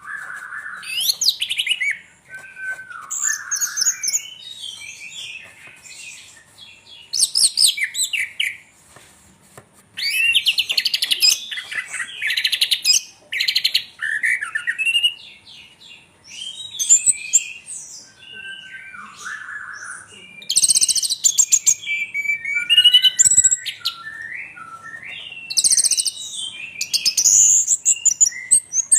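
Orange-headed thrush singing a long, varied song of quick trills, warbles and whistled sweeps, delivered in phrases with short pauses between them.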